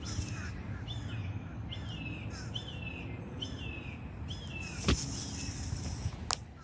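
A bird chirping over and over, a short falling note about every two-thirds of a second, over a steady low outdoor rumble. Two sharp clicks come near the end.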